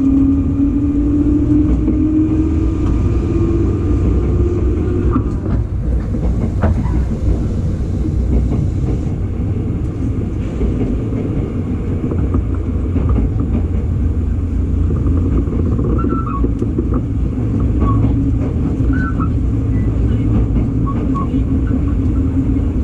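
Electric local train running, heard from inside the passenger car: a steady rumble of wheels on rail, with a motor whine rising in pitch over the first few seconds as it speeds up. A few faint short squeals come in the second half.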